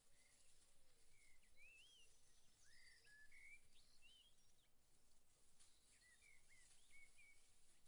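Near silence outdoors with faint bird chirps: short whistled notes that rise and fall, several in a row through the middle and a few more near the end.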